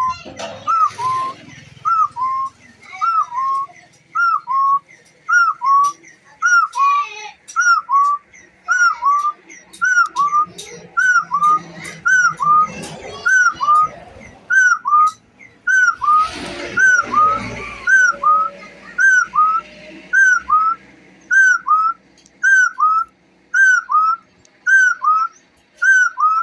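A partridge calling: a long, regular series of loud whistled notes, each sliding down in a hook, a little more than one a second. Fainter, short, high notes sound alongside.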